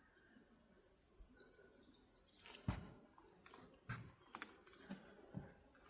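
A small songbird singing a fast, high trill of evenly spaced notes that lasts about two seconds. After it come a few soft, irregular crunching steps on a dirt trail.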